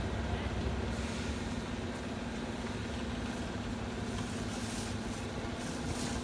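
Diesel locomotive of a passenger train running steadily at the station platform: a low rumble with a steady hum, and faint short hisses about five and six seconds in.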